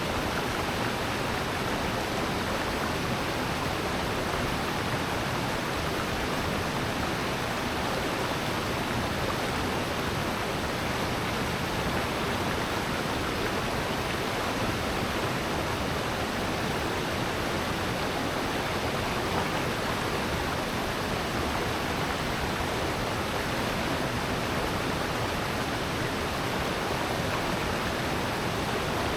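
Rushing water of a mountain valley stream over rocks: a steady, unbroken rush.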